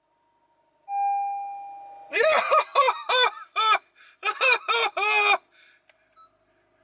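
A single electronic chime from the 2013 Honda Civic Hybrid's dashboard rings out about a second in and fades away. It is followed by a man laughing in short bursts.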